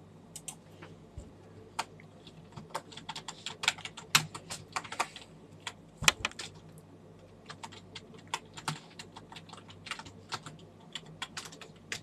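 Typing on a computer keyboard: irregular runs of short key clicks, busiest around the middle and near the end, over a faint steady low hum.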